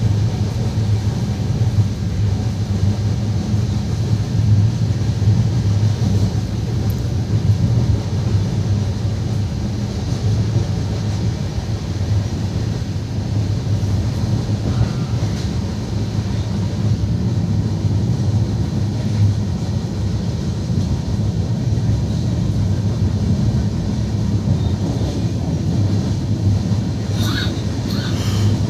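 Passenger train coach running at speed, heard from inside: a steady low rumble of wheels on the rails.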